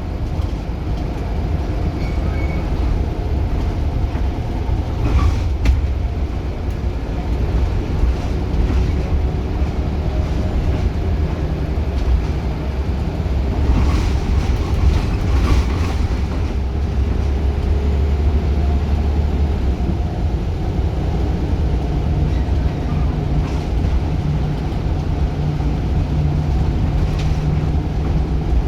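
Scania L94 single-decker bus with a Wright Solar body, its five-cylinder diesel engine running steadily with the bus under way. There are a few short knocks or rattles about 5 s and 14–16 s in, and the engine note settles into a steady low hum from about 21 s on.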